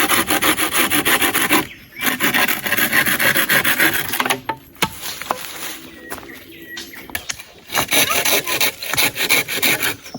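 Saw cutting through wood: rapid back-and-forth rasping strokes in three spells, with two short pauses.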